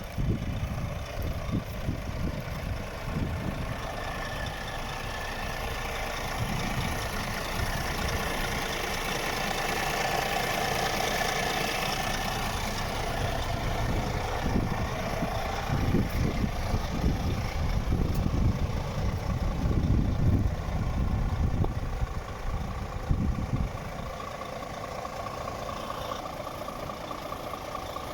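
Scania G400 truck's straight-six diesel engine running at idle with a steady low rumble, growing louder through the middle stretch and settling back near the end.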